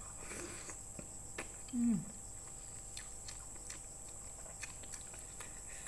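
Close-up mouth sounds of eating thin misoa noodles: soft chewing with small wet clicks, and a short falling hum about two seconds in.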